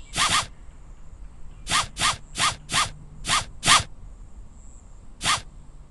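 Cat-game sound effect: quick zip-like swishes, about nine in irregular clusters, two right at the start, six packed between about one and a half and four seconds in, and one more near the end.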